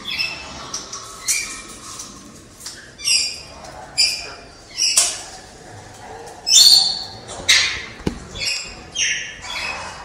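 A bird giving harsh squawking calls, repeated roughly once a second. The loudest and longest call comes about two-thirds of the way through.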